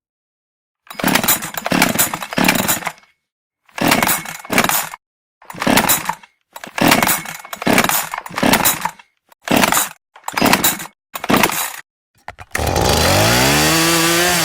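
Chainsaw cutting into wood in a string of short, abruptly cut-off bursts, about nine in all. Near the end comes a continuous stretch of the saw running, its pitch rising and falling as the throttle is worked.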